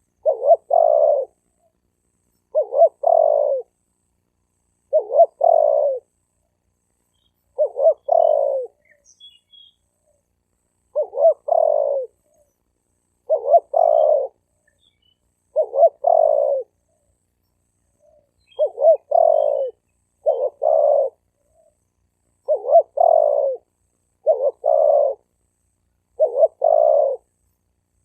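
Male spotted dove cooing: a short phrase of two quick notes and a longer coo, repeated a dozen times about every two seconds.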